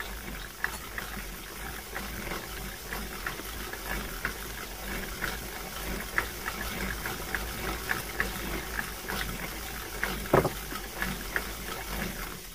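Close-up eating sounds: wet chewing and small mouth clicks while tomatoes and grapes are eaten from a bowl, picked up close to a headset microphone, over a steady low rumble. There is one short louder mouth sound about ten seconds in.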